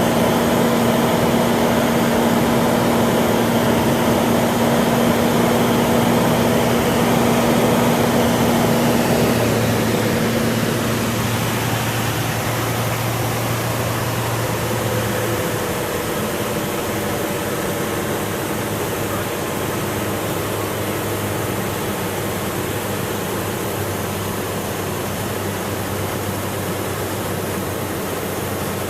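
Cessna 182's piston engine and propeller droning steadily in flight, with a rushing air noise. About ten seconds in, the engine note drops and grows a little quieter, and it drops again a few seconds later.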